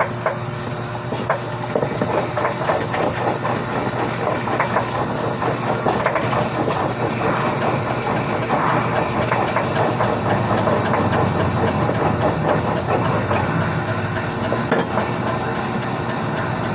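Busy city street ambience: a steady rumble of traffic engines with scattered small clicks and clatter.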